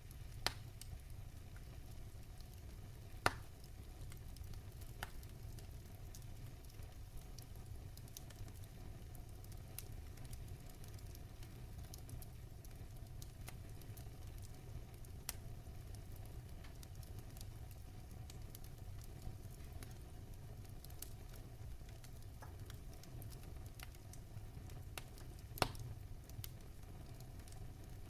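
Wood fire burning in a fireplace: a steady low rumble and soft hiss with scattered sharp crackles and pops, the loudest about three seconds in and again near the end.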